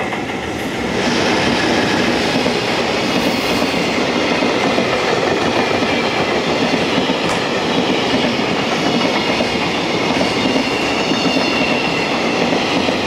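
Freight train passing at close range: a JR Freight EF210 electric locomotive comes through, then a long string of loaded container flatcars rolls by, its wheels running steadily on the rails. The noise swells about a second in and then holds steady.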